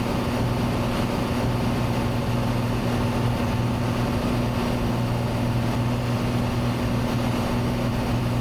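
Cessna 182T's six-cylinder piston engine and propeller running steadily in flight, heard from inside the cabin as a constant low hum over a wash of airframe noise.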